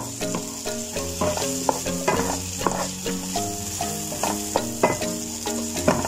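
Diced butternut squash, onion, garlic and thyme sizzling in olive oil in a non-stick frying pan, with a spatula stirring and scraping through them in repeated strokes.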